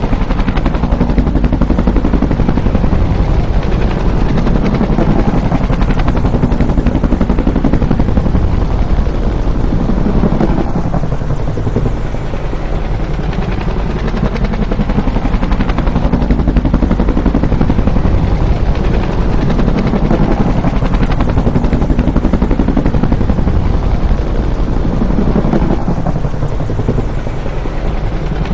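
Bell UH-1 "Huey" helicopter running loud and close, its two-blade main rotor beating rapidly over the turbine noise. The sound swells and eases every several seconds.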